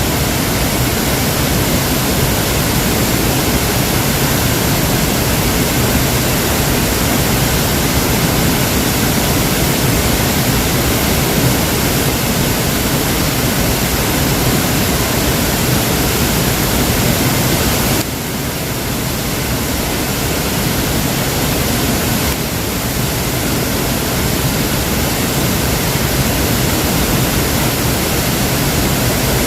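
Waterfall: a loud, steady rush of falling water that dips a little about two-thirds of the way through, then builds back.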